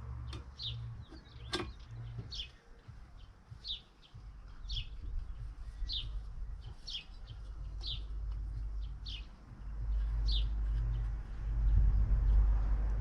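A small bird chirping over and over, short high falling chirps about once a second. There is a sharp click about one and a half seconds in, and a low rumble swells near the end.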